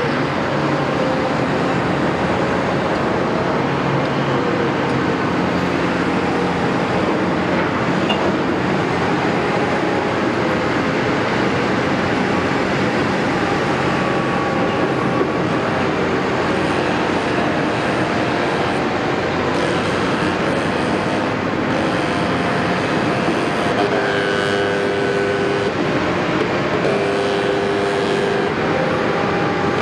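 Caterpillar 329E excavator working: its diesel engine runs steadily under load, with tones from the engine and hydraulics that shift in pitch as the machine works, strongest near the end.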